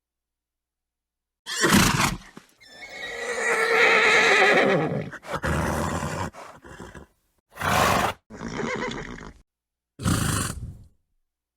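Horse neighing: a long, wavering whinny in the middle, then a few short snorts and calls, each cut off by dead silence.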